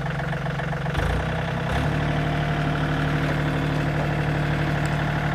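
Engine idling steadily, with a knock about a second in and a change in the engine note just under two seconds in.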